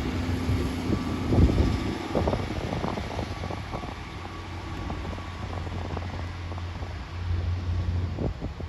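Class 142 Pacer diesel multiple unit pulling out of a station with another diesel unit, its engines droning steadily and fading after a couple of seconds. Irregular knocks come from the wheels on the rails; the train has a wheel the spotter calls flat.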